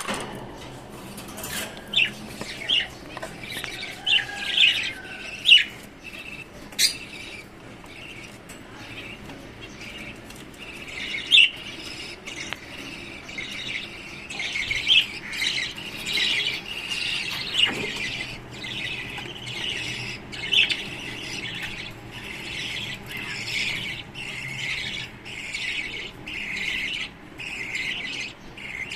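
Caged lovebirds and finches calling: scattered sharp squawks and chirps at first, then a dense, continuous chatter of high calls from about a third of the way in.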